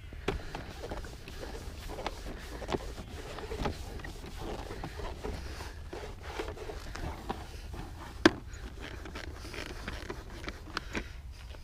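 Cloth wiping and buffing over motorcycle trim by hand: irregular soft scuffs and rubbing with small handling knocks, and one sharp click a little past eight seconds in.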